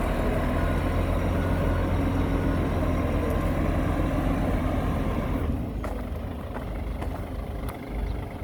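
Heavy diesel engine of earthmoving machinery running steadily, growing quieter about five and a half seconds in.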